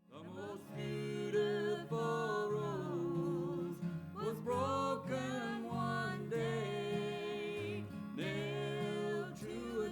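Gospel song: a voice sings slow phrases with vibrato over a steady instrumental accompaniment.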